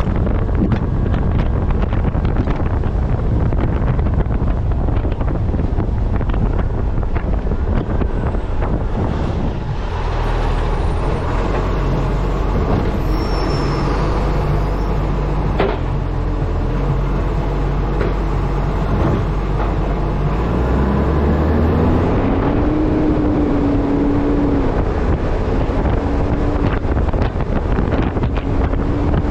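Wind rushing over a camera mounted on the front of an Acco truck as it drives. About ten seconds in, the wind drops and the truck's diesel engine is heard running steadily at low speed. Near the end the engine's pitch rises and holds as it revs up.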